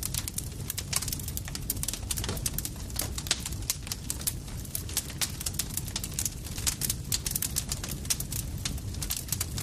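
Campfire crackling, with many irregular sharp pops and snaps of burning wood over a steady low rumble of the flames.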